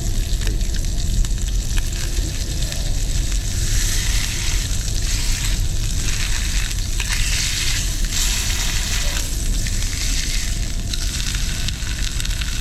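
Food frying in hot oil: a steady, dense sizzle that swells louder in the middle, over a steady low rumble.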